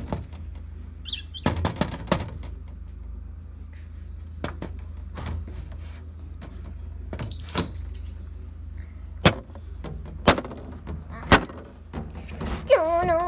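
Lovebirds at a food dish: scattered sharp taps and knocks, with a few short high chirps, over a steady low hum.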